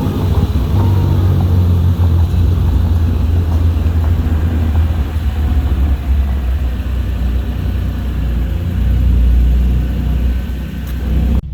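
Lexus GS300's turbocharged 2JZ-GTE inline-six running, a fairly steady low-pitched engine sound that swells a little near the end.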